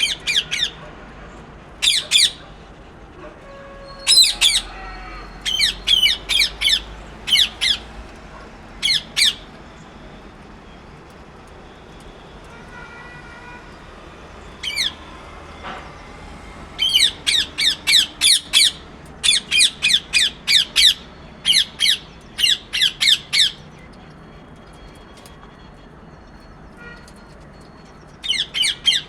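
Parrot giving short, shrill squawks in quick bouts, several calls a second, with a long pause in the middle.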